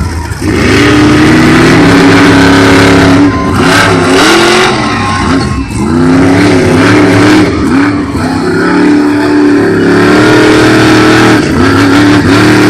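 Monster truck engines running loud, revving up and down again and again as the throttle is worked during a race.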